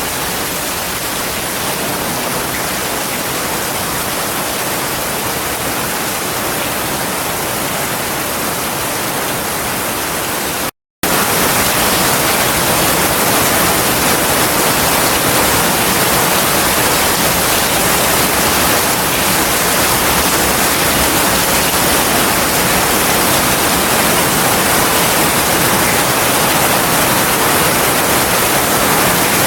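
Heavy rain falling steadily, a dense even hiss. About a third of the way in it cuts out for a split second and resumes slightly louder.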